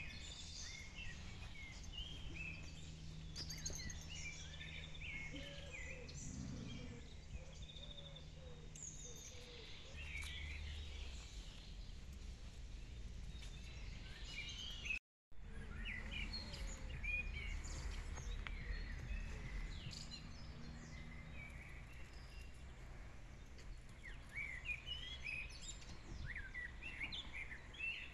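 Small birds chirping and singing in many short calls over a low steady rumble, cut by a brief break about halfway.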